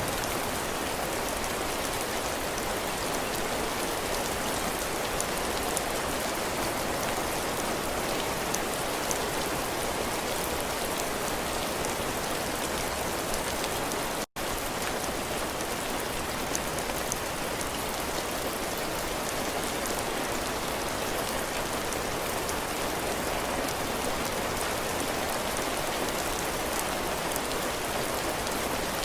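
Heavy rain falling on a cabin porch, drops striking the roof and floor in a steady even hiss with scattered sharp drop ticks. The sound cuts out for an instant about halfway through.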